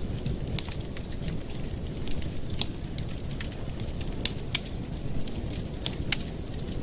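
Campfire burning, with irregular sharp crackles and pops, several a second, over a steady low rumble.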